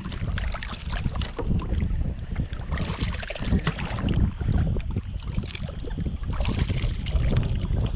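Strong gusty wind buffeting the microphone, a heavy uneven low rumble, with scattered splashes and knocks of water and gear around a kayak.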